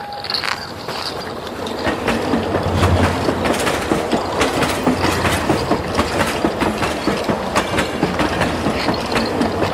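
Train rolling along rails, its wheels clicking over the rail joints in an even clickety-clack, about three clicks a second, growing louder over the first two seconds.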